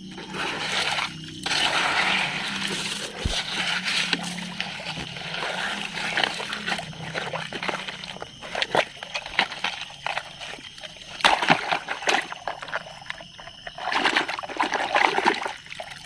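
Water splashing and sloshing irregularly, with short splashes and trickles, as plastic toy vehicles are washed by hand.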